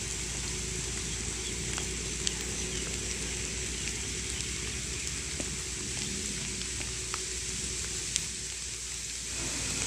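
Steady hiss of rain falling, with a few faint sharp ticks of drops scattered through it. A faint steady hum fades out about halfway through as the narrow-gauge train draws away.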